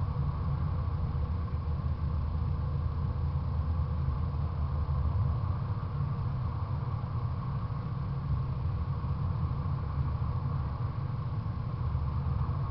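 Fox-body Ford Mustang's 5.0 V8 idling, a steady low engine sound picked up by a camera suction-mounted on the car's fender.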